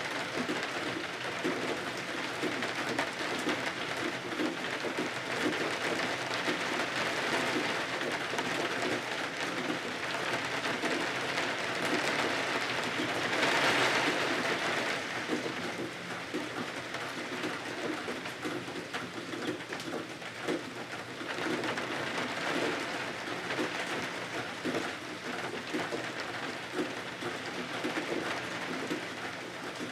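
Steady rain falling, a dense even patter that swells for a moment about halfway through.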